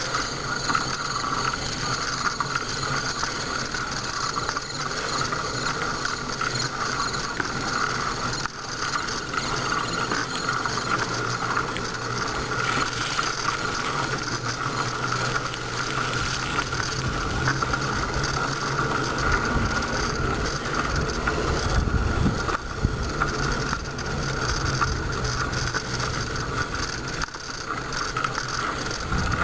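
Bicycle freewheel hub ticking steadily as the bike coasts. A low rumble of wind on the microphone joins in about halfway through.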